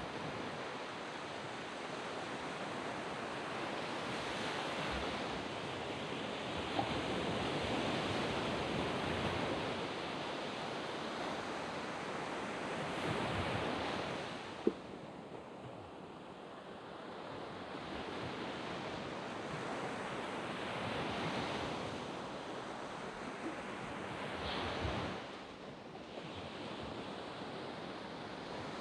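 Ocean waves breaking and washing up a sandy beach, the surf swelling and ebbing in slow surges, with some wind on the microphone.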